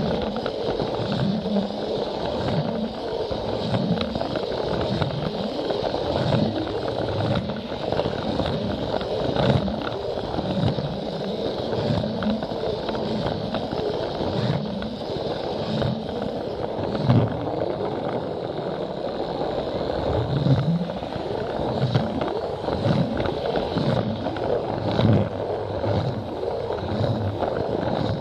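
Plarail battery-powered toy train running on plastic track: a steady motor and gear whine with irregular low knocks as the wheels pass over the track joints.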